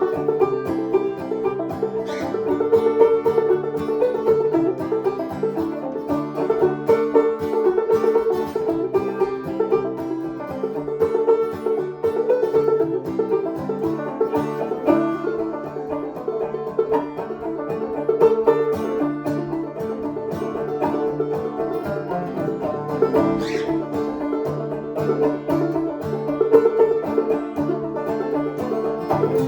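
A band playing an instrumental passage with plucked string instruments to the fore and no singing.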